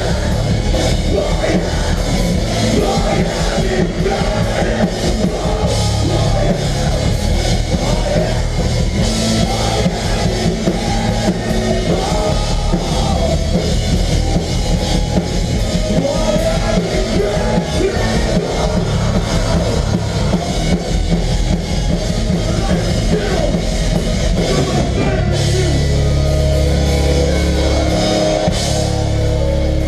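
Melodic hardcore band playing live at full volume, with drum kit, bass and distorted instruments filling the sound. Near the end the low end turns heavier.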